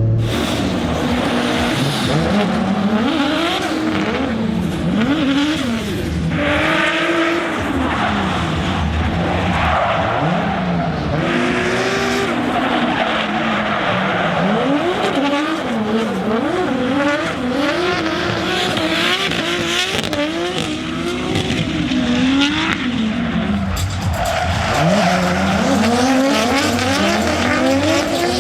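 Drift cars on track: turbocharged engines revving hard, the pitch rising and falling over and over as the drivers work the throttle, with tyres squealing and skidding throughout.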